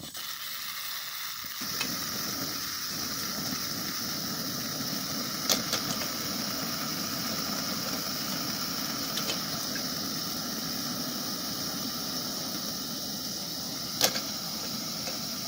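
Cooking on a camp stove: a steady sizzling hiss, with two short sharp clicks about five and fourteen seconds in.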